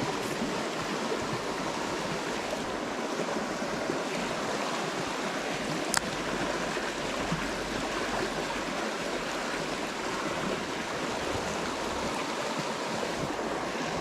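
Steady rush of flowing creek water, with one brief sharp click about six seconds in.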